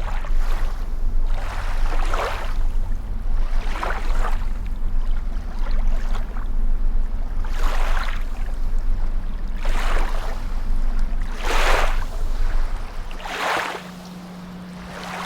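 Lake water sloshing and splashing in surges about every two seconds, with wind buffeting the microphone as a heavy low rumble that drops away near the end.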